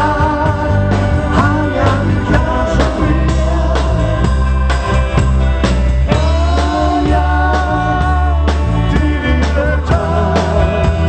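Live pop-rock band playing a song: drum kit, heavy bass and held melody notes, with singing.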